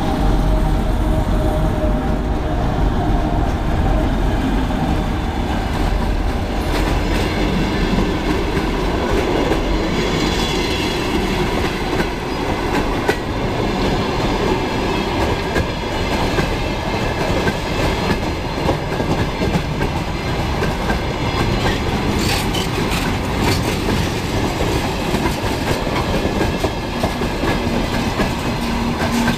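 A two-section 2M62U diesel locomotive's two-stroke diesel engines running as it passes close by in the first few seconds. Then the wagons of a maintenance train roll past with a steady clickety-clack of wheels over the rail joints.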